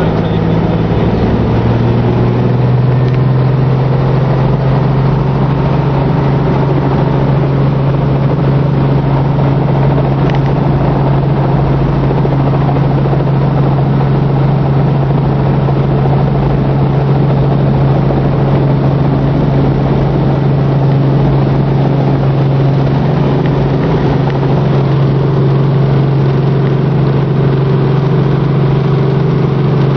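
Helicopter engine and rotor running, heard from inside the cabin: a loud, steady drone whose low hum rises in pitch about a second in and then holds.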